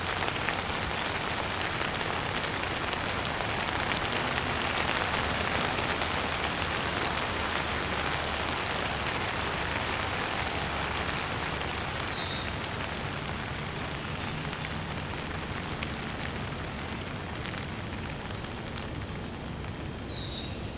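Steady rain falling, easing a little toward the end. A bird chirps briefly twice: once about halfway through and once near the end.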